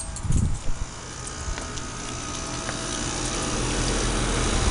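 Outdoor air-conditioning condensing unit running in cool mode: a steady mechanical hum that grows louder as it is approached. A low bump comes just after the start.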